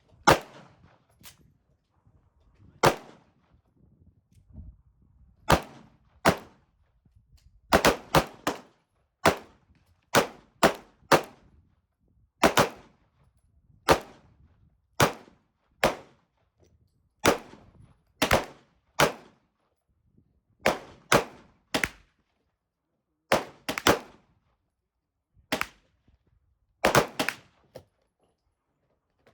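Gunshots fired one at a time at an irregular pace, roughly one a second, some in quick doubles or triples, each a sharp crack with a short ringing tail.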